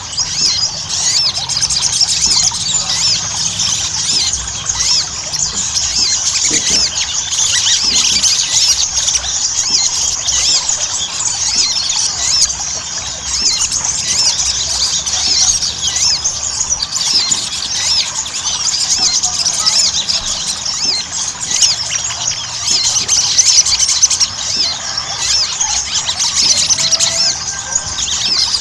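Little spiderhunter (sogon) song: a dense, unbroken stream of rapid, high-pitched chirps and squeaky notes.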